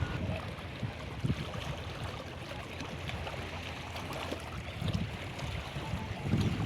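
Steady rush of flowing stream water, with wind buffeting the microphone near the end.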